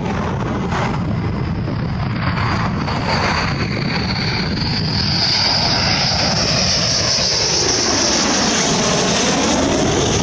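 F-15 fighter jet's twin turbofan engines heard from the ground on approach: a steady loud jet noise with a high whine that rises and grows louder. From about the middle on, the tone sweeps down and back up in a swooshing way as the jet draws close.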